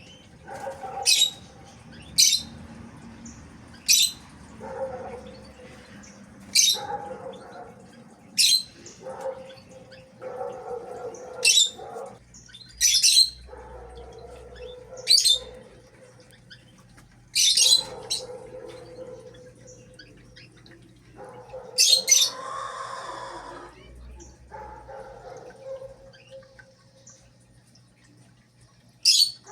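A bird repeating short, sharp, high-pitched calls, about a dozen over the stretch, every couple of seconds with a longer gap near the end.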